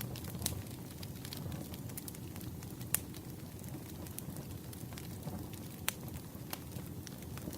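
Campfire crackling: a steady low rush of burning wood, broken by scattered sharp pops, the loudest near three seconds in.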